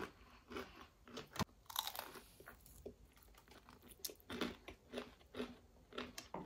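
Crispy fried chicken being bitten and chewed: a string of short, irregular crunches.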